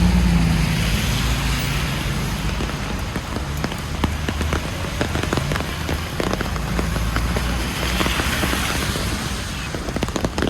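Rain falling on a city street, with many sharp drop ticks close by over a steady low traffic rumble. Twice, about a second in and again near the end, a broad hiss swells and fades, like vehicles passing on the wet road.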